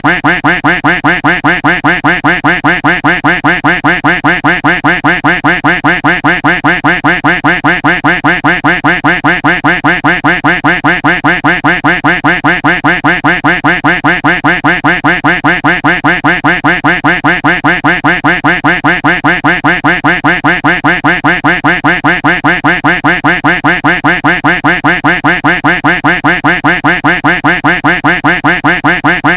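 Duck quack sound effect looped over and over, rapid and evenly spaced at about four quacks a second, loud and unchanging.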